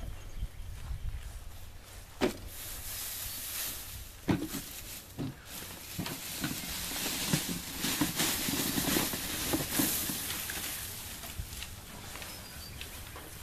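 Dry wheat stalks rustling, with irregular sharp knocks, busiest in the middle: handfuls of cut winter wheat being beaten against a cinder block to thresh out the grain. A faint bird chirp near the end.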